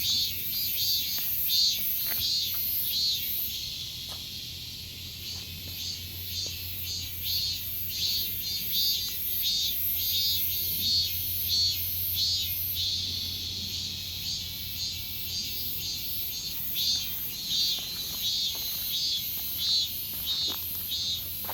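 Cicadas singing: a high, shrill song pulsing about twice a second, over a steady low hum.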